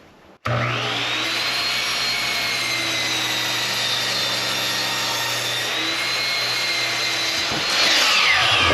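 Electric power saw switched on: its motor spins up with a rising whine and runs steadily. Near the end it gets louder and the whine drops, as when the blade bites into lumber.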